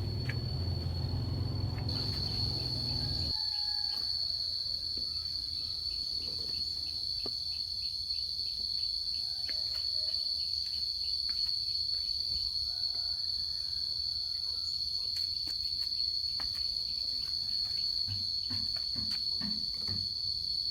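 Insects trilling in one steady, continuous high-pitched tone, growing louder about two seconds in. A low rumble underneath stops suddenly about three seconds in, and faint clicks are scattered throughout.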